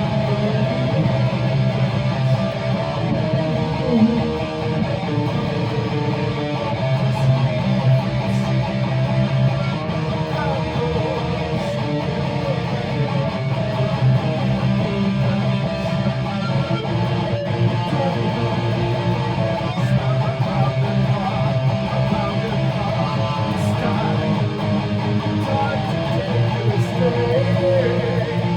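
Guitar playing chords steadily, an instrumental passage of the song.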